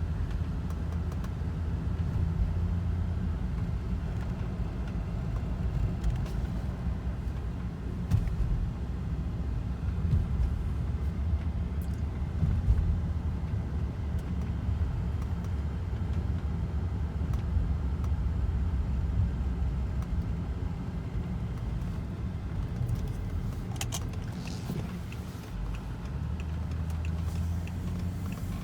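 BMW E60 sedan driving, heard from inside the cabin: a steady low engine and road rumble that swells and eases slowly. Near the end there is a short run of faint, even ticks. The car is on a test drive after a crankshaft position sensor replacement.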